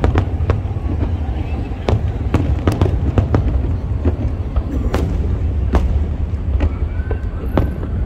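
Fireworks going off: many sharp cracks and bangs at irregular intervals, several a second, over a continuous low rumble.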